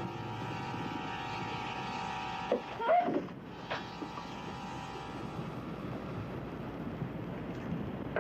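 Film soundtrack: a held drone of several steady tones that stops about five and a half seconds in. A few sharp knocks come around three seconds in, over a steady wind-like noise.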